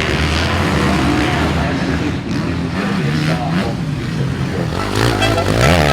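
Motocross bike engines revving hard, several at once, their pitch rising and falling as riders work the throttle and shift. One engine's pitch sweeps sharply about five and a half seconds in.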